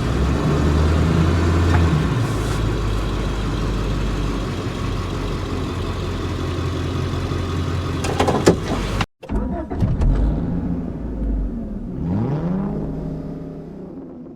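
2000 Ford F350's 7.3-litre Power Stroke turbo-diesel V8 running steadily while the truck drives, with road noise. It cuts off suddenly about nine seconds in, followed by a few gliding tones and thumps that fade out near the end.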